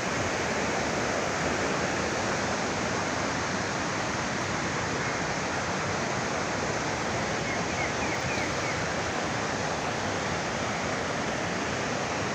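Steady rushing of falling water from a waterfall, an even unbroken noise. A few faint high chirps come through about two-thirds of the way in.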